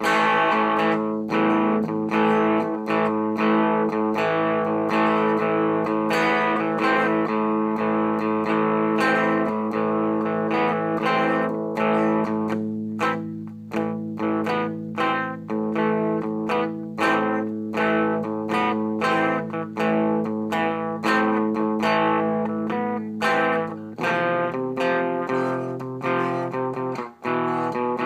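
Peavey AT200 electric guitar played through a Yamaha THR10 amp on its crunch setting: chords in a steady rhythm with light distortion. The chord pattern changes about 24 seconds in.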